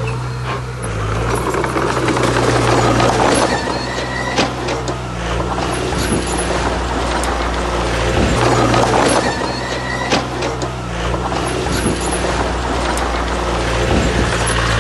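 Heavy diesel earthmoving machinery running steadily. Swells of rushing, grinding noise come every five to six seconds, with scattered clanks.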